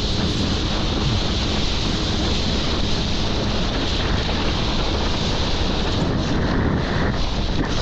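Steady wind buffeting the microphone and rushing water while riding behind a jet ski, with the jet ski's engine droning underneath.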